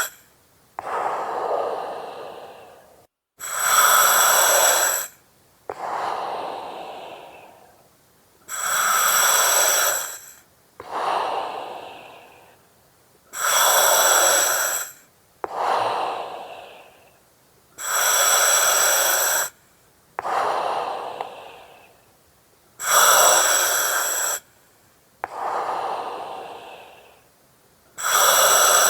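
Slow, even breathing through an oxygen mask: each cycle is a loud hiss of gas through the mask regulator, then a softer breath that fades away. The cycle repeats about every five seconds, about five and a half times.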